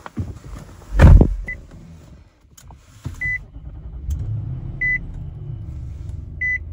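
A car door shuts with a thud about a second in, then the Nissan Armada's engine starts about three seconds in, swells briefly and settles into a steady idle. A dashboard reminder chime beeps four times, about once every one and a half seconds.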